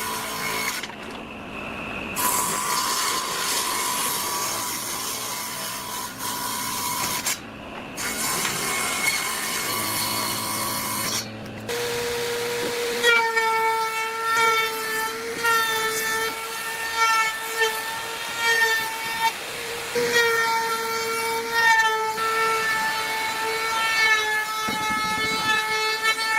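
Woodworking tools at work, in short cut-together segments of noisy working sound. About halfway through, a motorised tool starts a steady, high whine with several overtones.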